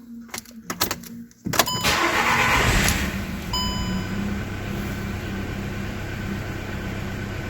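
VW Golf engine cranking and catching about a second and a half in after a few clicks, then idling steadily, a sign that it now cranks and starts. A short beep sounds just after it catches.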